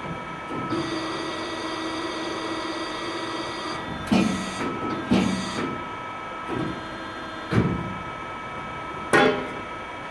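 A small motor runs steadily for about three seconds, then stops, followed by four sharp knocks and clatters, typical of woodworking on a workbench.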